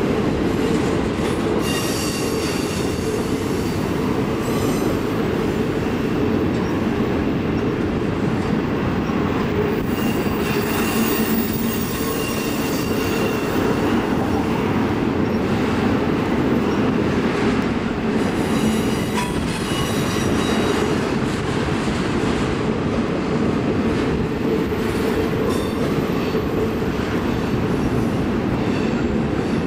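Freight train of double-stack intermodal well cars rolling past: a steady rumble of steel wheels on rail, with thin high wheel squeals coming and going every several seconds.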